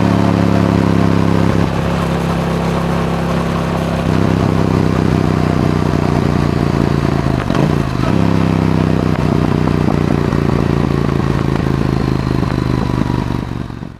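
Yamaha R7's parallel-twin engine running through an Akrapovic exhaust, its pitch stepping a couple of times early on and dipping briefly about halfway through, then fading out at the very end.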